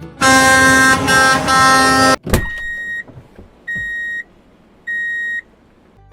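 A vehicle horn blasts for about two seconds, then a sharp click, then three evenly spaced high-pitched beeps.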